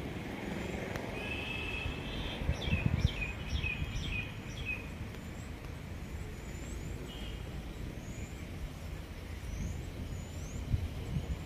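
Birds calling over a steady low rumble of outdoor ambience. A run of quick, falling chirps comes a couple of seconds in, followed by faint, high chirps now and then.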